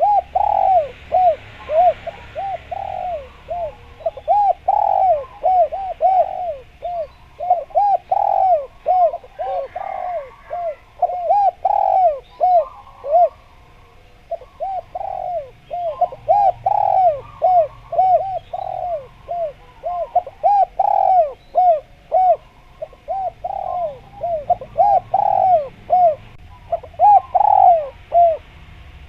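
Spotted doves (derkuku) cooing in a long run of short arched coos, about two a second, with a brief pause about halfway through. Faint chirps of small birds sound higher above them.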